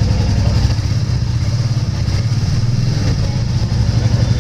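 2021 Royal Enfield Classic 350's single-cylinder engine running at idle through its exhaust, a steady, even low thumping.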